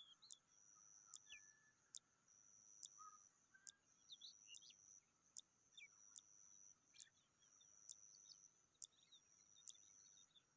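Faint outdoor ambience: a steady high-pitched buzz broken by regular ticks a little more than once a second, with scattered faint bird chirps.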